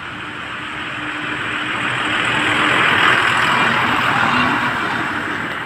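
A motor vehicle driving past, its engine hum and road noise growing louder to a peak about three seconds in, then fading away.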